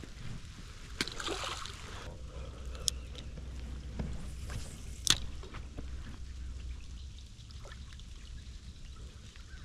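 Water splashing and trickling, with a few sharp clicks about one, three and five seconds in, over a steady low rumble.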